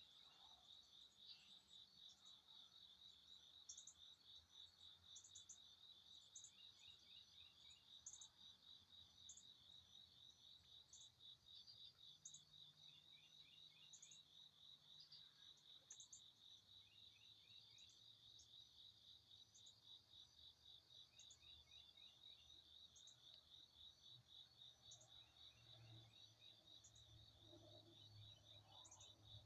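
Faint, steady, rapidly pulsing insect trill, like crickets, with short high bird chirps scattered through it about once a second.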